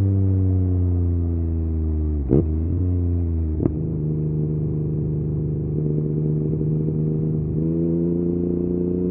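Yamaha MT-09's inline three-cylinder engine through an Akrapovic exhaust, slowing with falling revs, then two quick throttle blips a second or so apart. It then holds a steady note and the revs climb slowly again near the end.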